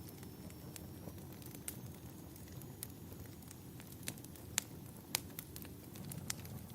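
Wood fire burning in a fireplace: a steady low rumble of flames with irregular sharp crackles and pops from the burning logs, a few louder pops in the second half.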